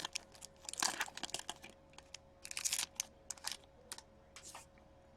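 Hockey card pack being handled: the foil wrapper crinkling and cards clicking and sliding against each other in quick irregular bursts, which stop about four and a half seconds in.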